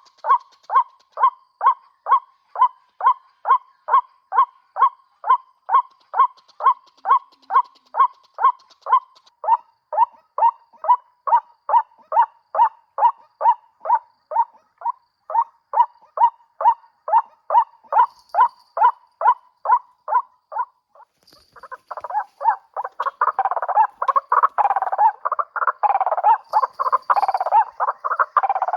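White-breasted waterhen (ruak-ruak) calls: a long, steady run of short, evenly spaced notes, about two and a half a second. About 22 seconds in, this turns into a denser, overlapping jumble of calls.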